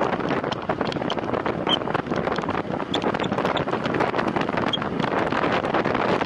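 Steady rushing wind on the microphone of a rider on a time-trial bike at race speed, with a few faint short high chirps scattered through it.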